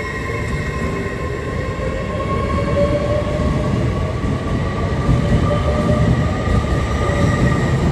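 LNER Class 801 Azuma train moving at the platform: a deep rumble under a steady whine of several held tones, growing louder.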